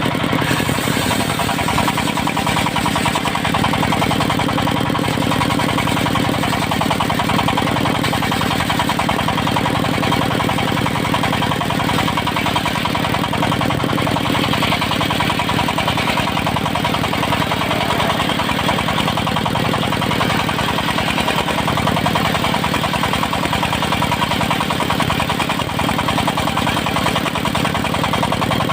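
Diesel engine of a mobile circular-saw sawmill running steadily at an even speed.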